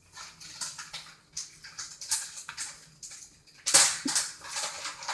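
A child slurping and chewing food: a string of short, wet, irregular noises, with the loudest slurp a little before the end.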